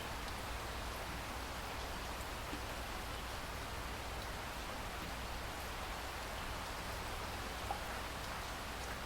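Steady rain falling, an even hiss of many drops without thunder.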